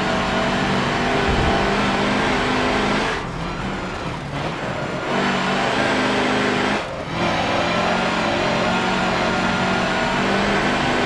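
Mercedes-Benz racing truck's diesel engine running hard under load, with a drop lasting about two seconds starting about three seconds in and a short break near seven seconds before it pulls again.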